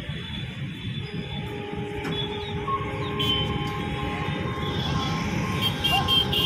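Train running past a level crossing: a steady low rumble of wheels on track, with steady high tones over it from about a second in, getting louder toward the end.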